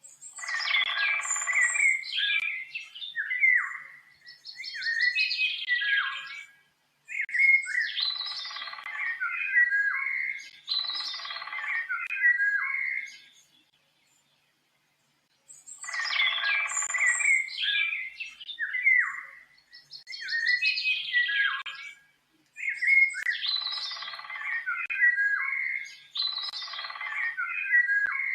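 A songbird singing: complex warbled phrases of quick notes, each a couple of seconds long, separated by short silences. The same sequence of phrases repeats about halfway through, like a looped recording.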